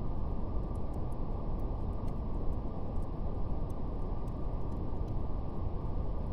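Steady brown noise, a deep, muffled rush, with faint crackles of a wood fire scattered through it.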